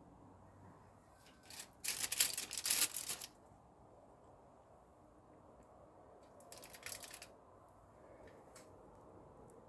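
Two bursts of crinkly rustling from something being handled: a longer, louder one about two seconds in and a shorter, quieter one near seven seconds, with a few faint clicks afterwards.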